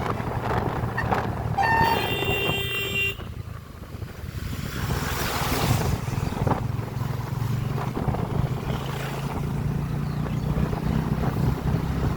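Motorcycle engine running steadily while riding, with wind buffeting the microphone. About two seconds in, a vehicle horn sounds for just over a second.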